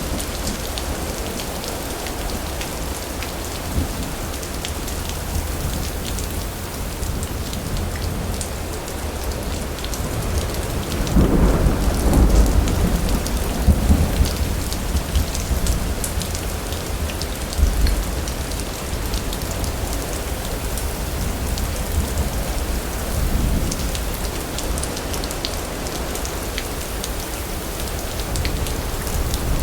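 Steady heavy rain pattering on surfaces, with a roll of thunder rumbling up about eleven seconds in, lasting a few seconds and dying away, and a shorter rumble a little after.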